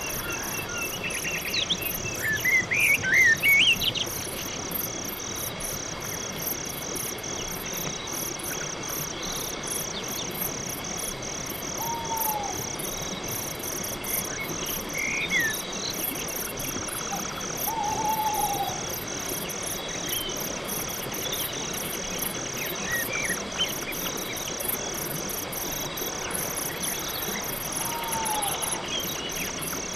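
Night-time chorus of crickets and other insects trilling in a steady pulsing rhythm, with a higher shrill insect buzz above it. Bird calls break in over it: a loud run of rising and falling chirps about two to four seconds in, then scattered short falling calls and chirps.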